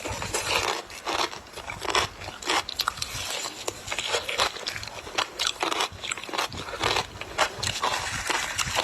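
A person biting and chewing ice, a quick run of sharp crunches and crackles, several a second.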